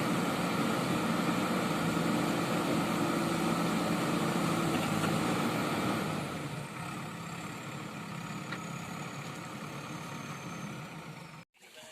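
JCB 3DX backhoe loader's diesel engine idling steadily. About halfway through it drops quieter, a faint high whine slowly falls in pitch, and the sound cuts off abruptly near the end.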